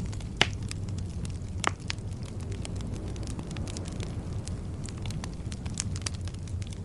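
Wood fire burning in a fireplace: a steady low rumble of flames under frequent crackles, with two louder pops about half a second and just under two seconds in.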